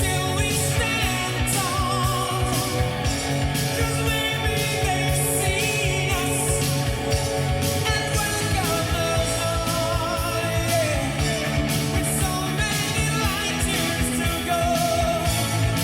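A rock song with a singer playing through a custom car audio system: Technics tweeters, FaitalPRO 3-inch full-range midranges and 8-inch midbass woofers. The sound is heard inside the car's cabin.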